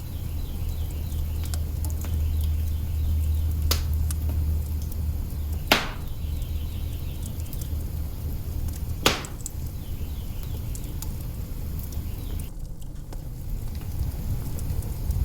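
Log fire burning in an open hearth: a steady crackle and hiss over a low rumble, with three sharp pops from the burning wood, the loudest about six and nine seconds in.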